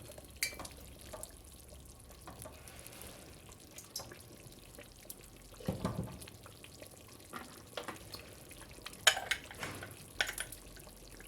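Pots and utensils being handled on the stove: scattered clinks and knocks, with a low thump about six seconds in and sharper clinks around nine to ten seconds in.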